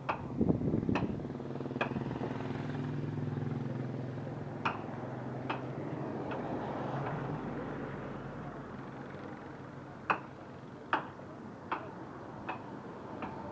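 A motor vehicle's engine running past, loudest in the first few seconds and fading away after about eight seconds, with a scatter of sharp clicks about a second apart.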